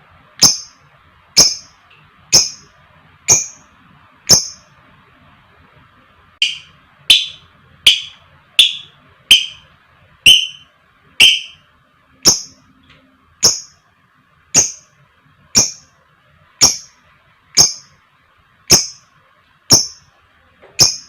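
Lovebird giving single shrill chirps about once a second, with a short pause about four seconds in. The calls in the middle stretch are lower-pitched than the rest.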